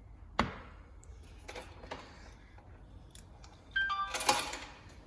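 Electronics and controls of a Super Soco TC electric motorcycle. A sharp click is followed by lighter clicks, then, about four seconds in, a short run of electronic beeps stepping down in pitch over a brief rattle, typical of the bike powering up.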